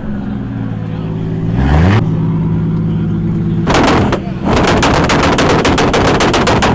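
A car engine running and being revved at a car meet. It climbs in pitch about two seconds in, and from about four seconds in it gives a fast, regular run of sharp cracking bangs, about eight a second.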